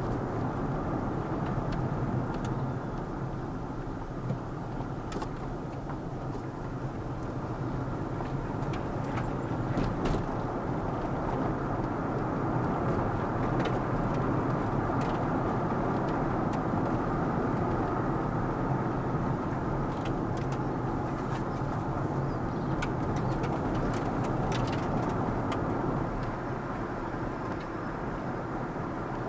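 Car driving along the road: a steady mix of engine and tyre noise, a little louder through the middle, with scattered faint ticks.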